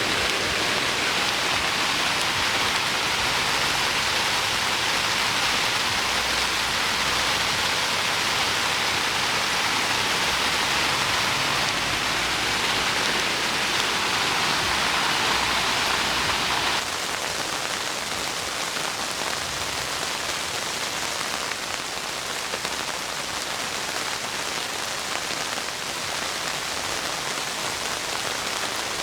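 Heavy rain falling, a steady hiss. About 17 s in it drops abruptly to a quieter, duller hiss.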